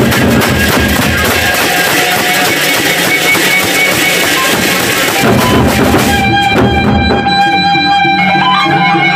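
Gendang beleq ensemble playing: big drums beaten with cymbals crashing in a dense, loud texture. About six seconds in the cymbal wash thins and sustained high pitched tones, like a reed wind melody, come to the front.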